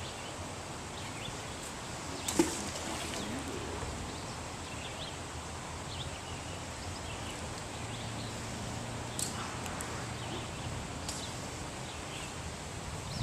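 Steady outdoor background noise, with one sharp knock about two seconds in, a few faint short chirps, and small clicks later.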